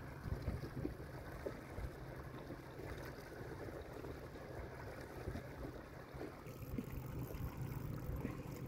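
Steady wind rumble on the microphone with small waves lapping at a fishing kayak's hull, and a few faint ticks.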